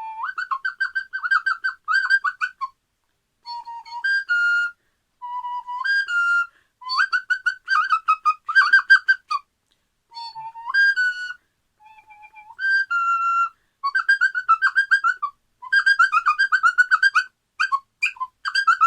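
Recorder played in quick fluttering chirps that jump between a lower and a higher note, in short bursts with brief pauses, imitating a nest of chattering, squabbling baby birds.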